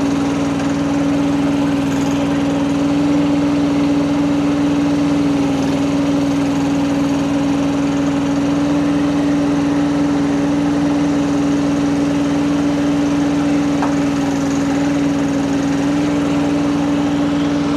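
Engine of a Rippa RS04 mini skid steer running at a steady, unchanging speed.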